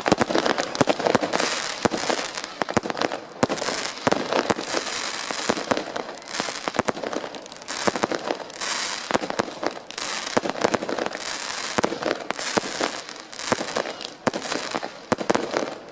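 Fireworks display going off: a dense, continuous barrage of crackling bangs and pops with hissing in between.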